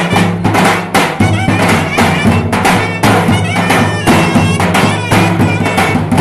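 Loud Turkish folk dance music: a reedy wind instrument plays an ornamented, wavering melody over steady, heavy drum beats.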